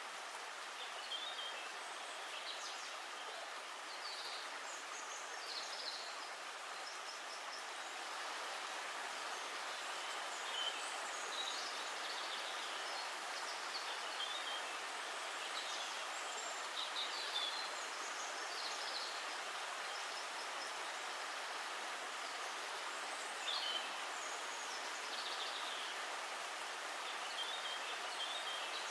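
Steady rushing of running water, with small birds chirping briefly now and then throughout.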